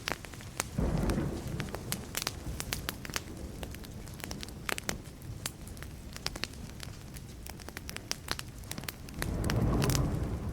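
Wood fire crackling, with many sharp pops and snaps throughout. Two short low rumbles of distant thunder swell in, about a second in and again near the end.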